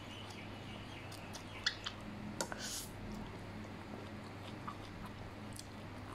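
Close-up chewing of a mouthful of fried yellow noodles, with a few light clicks in the first half and a short hiss about two and a half seconds in.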